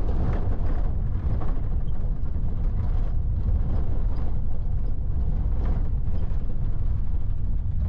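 A vehicle on the move: a steady, loud, low rumble of road and engine noise.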